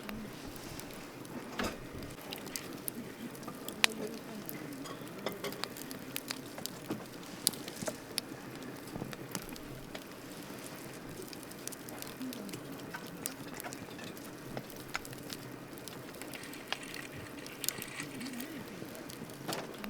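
Wood campfire burning with a steady hiss and scattered sharp crackles and pops, the loudest pop about four seconds in and another a few seconds later.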